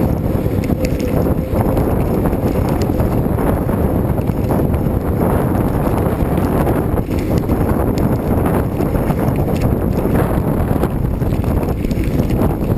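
Wind buffeting the microphone during a ride, a loud steady rumble, with a few small knocks and rattles scattered through it.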